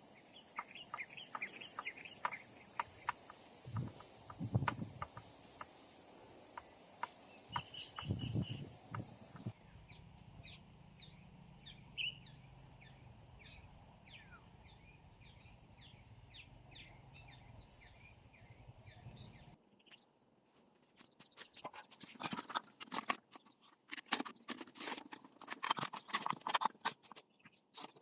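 Rural outdoor ambience in three parts: a steady high insect trill with scattered knocks and clicks, then repeated short bird chirps over a low hum, then a dense run of clicking and rustling handling noises near the end.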